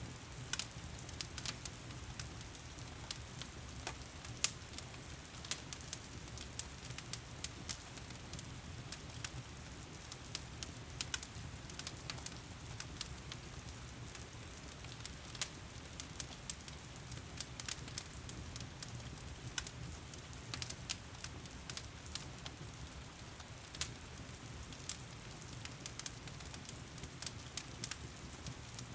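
Wood fire crackling with frequent irregular sharp pops over a steady hiss of heavy rain and a low rumble.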